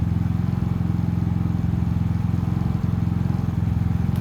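Predator 3500 generator's engine running steadily at constant speed, starting again now that its failed ignition module has been replaced and it has spark.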